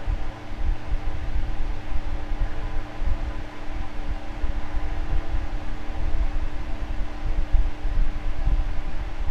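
Electric fan running steadily: a whir of moving air with a few steady humming tones and an unsteady low rumble underneath.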